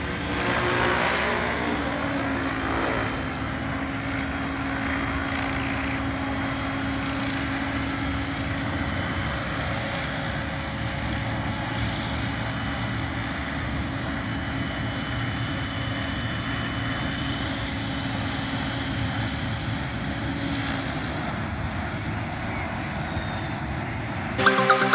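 Align T-Rex 700E electric RC helicopter flying, its rotor and motor running with a pitch that shifts in the first couple of seconds and then holds steady. Electronic music starts just before the end.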